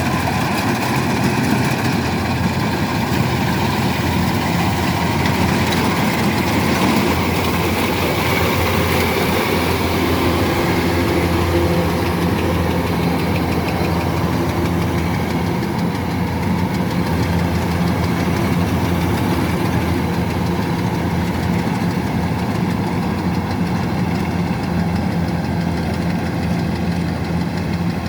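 Kubota DC-105X combine harvester's diesel engine running steadily, its pitch settling and holding from about ten seconds in.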